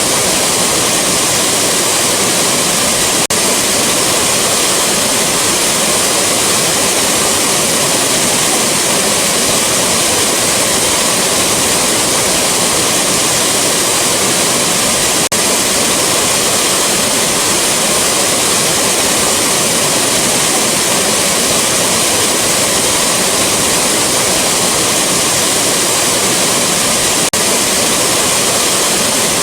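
Rushing waterfall: a loud, steady roar of falling water, with a brief tick and dip in level twice where the recording loops.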